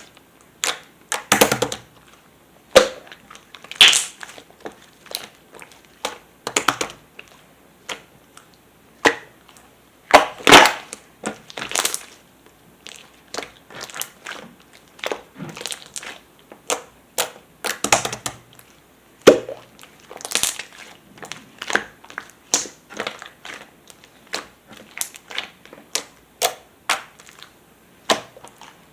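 Metallic pearl slime being squeezed and stretched by hand, giving irregular sharp pops and clicks as trapped air bursts, some single and some in quick clusters.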